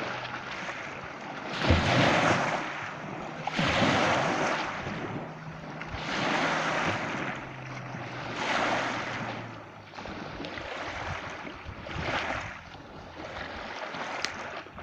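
Sea waves breaking and washing in, the surf swelling and easing every two seconds or so.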